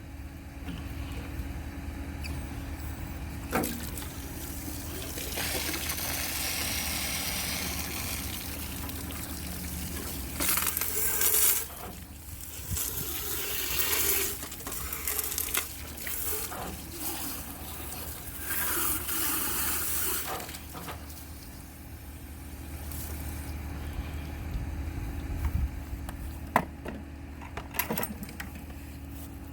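Water running into a bathroom sink and down its drain in several stretches while the drain is tested after being cleared of a blockage, with scattered knocks and clicks of the plumbing parts being handled. A steady low hum runs underneath.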